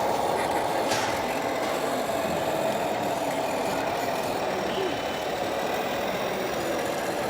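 Steady engine-like drone from radio-controlled model trucks running on the course, with a faint wavering pitch and a single click about a second in.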